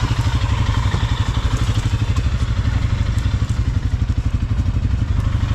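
ATV engine running at a steady low speed, an even low pulsing beat of about ten a second, with some clatter from the machine.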